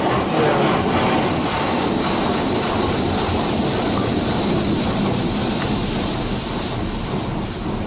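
High-pressure water jets of a Water Wizard 2.0 in-bay automatic car wash spraying over the car during its wash and rinse pass, heard from inside the cabin as a steady, loud rushing hiss that eases slightly near the end.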